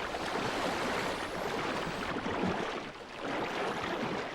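Churning, bubbling water that swells and dips, with two faint high whistles rising in pitch.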